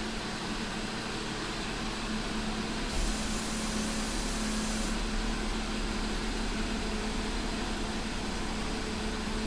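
Jeep Wrangler JL's engine running as the vehicle creeps forward at low speed, a steady hum over an even wash of noise; the low rumble grows a little about three seconds in.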